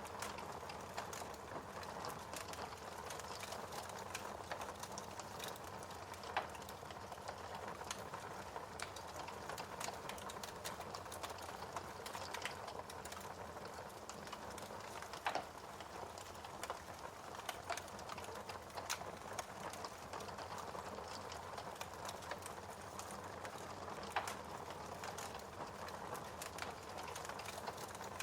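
Wood fire crackling steadily, with irregular sharp pops and snaps, a few louder ones standing out.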